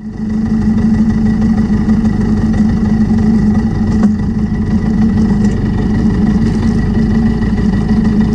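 Benelli TRK 502X's parallel-twin engine idling steadily, heard close up from a camera mounted low on the crash bar.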